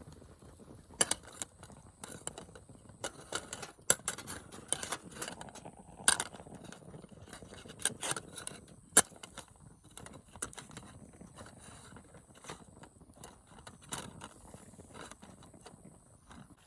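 Irregular light metallic clinks, taps and short scrapes of camp cookware and utensils being handled, with the sharpest clinks about a second in, near four, six, eight and nine seconds.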